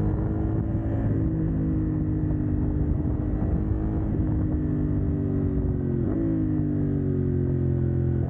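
CFMoto 800NK's 799 cc parallel-twin engine running through a de-catted exhaust, under way at fairly steady revs that ease slowly down, with a brief change in pitch about six seconds in.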